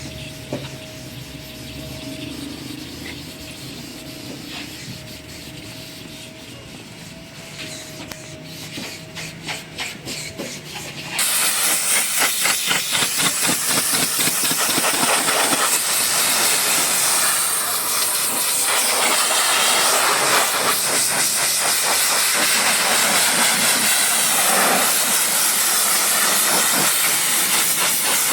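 High-pressure washer spraying a vehicle: a loud, steady hiss of spray with a fast pulsing flutter starts suddenly about a third of the way in, over a quieter machine hum before it.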